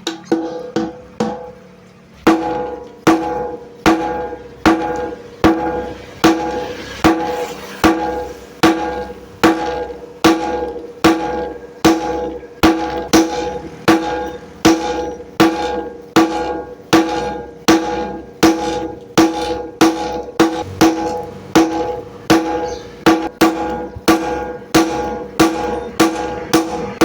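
Hammer striking hot steel on an anvil while forging a parang blade: steady, evenly spaced blows, nearly two a second, each with a ringing tone. The first two seconds hold quicker, lighter taps before the full blows begin.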